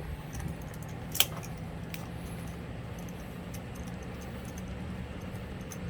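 Hand tools and steel bolts handled while the engine case bolts come out: a few light metallic ticks and one sharp clink about a second in, over a steady low hum.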